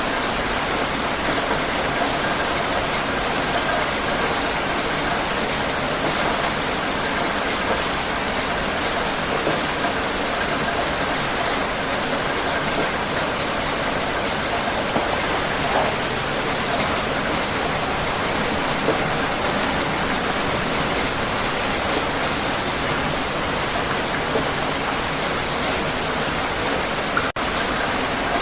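Heavy rain falling steadily: a dense, even hiss with scattered louder drop splashes. A split-second dropout in the sound comes near the end.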